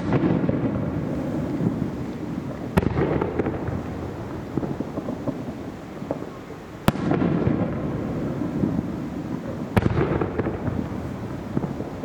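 Aerial firework shells bursting: four sharp bangs about three seconds apart, each followed by a long rolling rumble and crackle.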